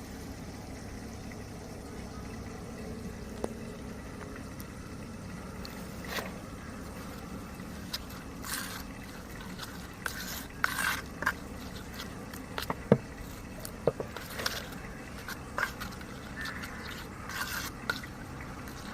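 Flour batter being mixed in a bowl, the utensil scraping and clicking against the bowl in short, irregular strokes, with water likely going in to loosen it.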